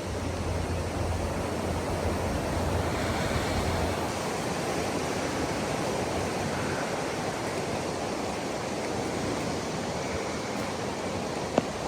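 Steady rushing wind noise, with a low hum for the first few seconds and a single sharp click near the end.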